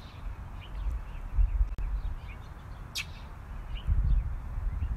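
A bird in the park gives one sharp, high call about three seconds in, with fainter short chirps around it. It is the bird that has been diving at the dog. Low buffeting rumbles on the microphone, loudest twice, run under the calls.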